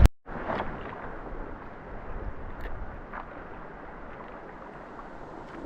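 Steady rush of a shallow creek's water running over rocks, with a few faint ticks.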